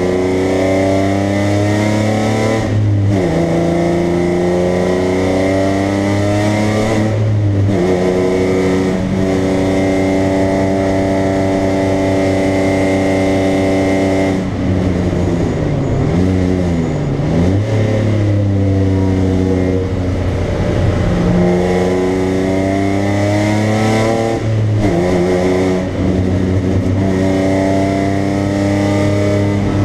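BMW 325i's straight-six engine heard from inside the cabin under hard acceleration, rising in pitch and dropping sharply at upshifts about 3 and 7 seconds in. It holds a steady high note, then falls away off the throttle with downshifts around halfway, before climbing again with another upshift near the end. Steady wind and road noise run underneath.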